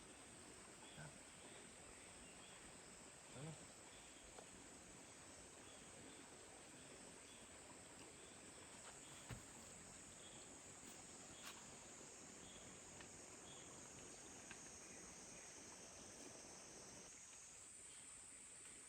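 Faint, steady high-pitched drone of insects in a summer forest, with a row of fainter chirps below it and a few soft clicks.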